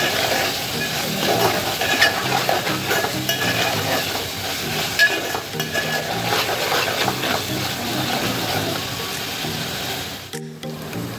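Coconut-garlic masala paste sizzling as it fries in oil in a metal pot, while a steel ladle stirs it, scraping and knocking against the pot. The sound drops out briefly near the end.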